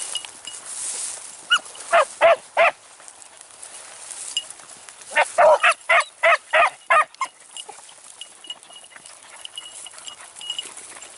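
Beagle hounds baying on a rabbit's trail: a short run of about four cries, then a quicker string of about seven. This is the hounds giving voice as they run the scent.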